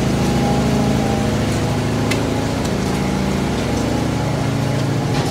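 Large century-old oil-field gas engines running steadily, a deep continuous rumble with a steady hum of engine tones. A couple of sharp clicks stand out, about two seconds in and again at the end.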